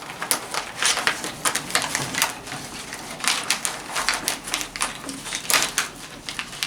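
Plastic snack-tray packaging crinkling and crackling in irregular sharp clicks as its lid is pulled off.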